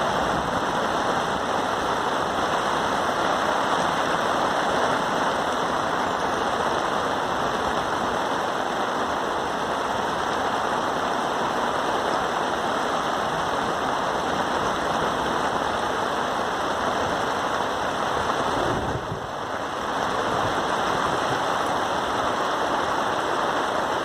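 Rain falling steadily, an even hiss with a brief lull about nineteen seconds in.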